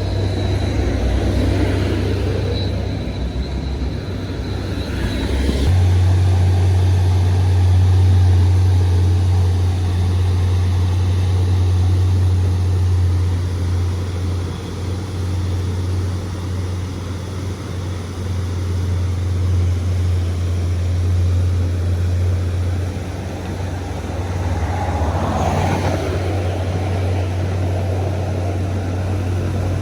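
Road traffic: a steady low rumble of passing vehicles, with one vehicle going by loudly about 25 seconds in.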